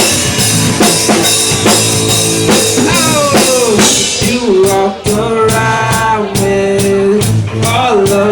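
Live rock band playing loud: a drum kit keeps a steady beat under bass and guitar, and a sliding, then held, melodic line comes in about halfway.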